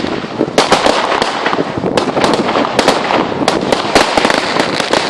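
Fireworks going off in a rapid barrage: a dense, irregular string of sharp cracks and bangs over continuous crackling.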